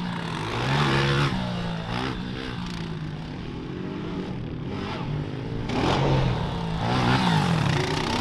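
Dirt bike engine revving, its pitch climbing with each burst of throttle: about a second in, again around two and a half seconds, and a longer run between about six and seven and a half seconds.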